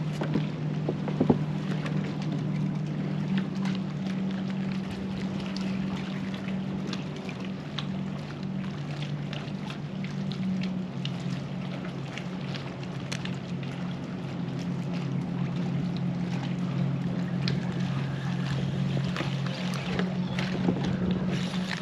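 Electric trolling motor of an Old Town Autopilot 120 kayak running with a steady hum, which shifts lower about halfway through as its speed changes. Small ticks of water against the hull come through underneath.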